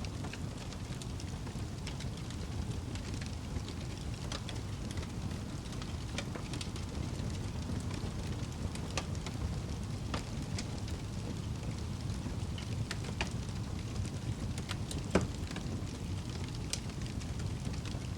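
Wood fire burning in a fireplace: a steady low rumble of flames with irregular crackles and snaps, and one louder pop about 15 seconds in.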